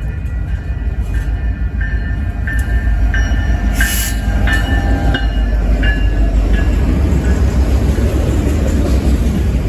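A train rolling past, a heavy steady low rumble that grows a little louder about three seconds in. Short high-pitched tones come and go over the first seven seconds, with a brief hiss near the middle.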